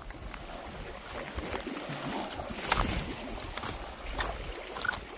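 Lake water lapping at a rocky shoreline, with scattered sharp clicks and crunches; the loudest comes a little past halfway.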